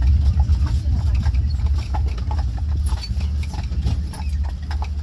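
Hooves of a two-horse team clip-clopping on the road as the buggy rolls along, over a loud steady low rumble of the moving carriage.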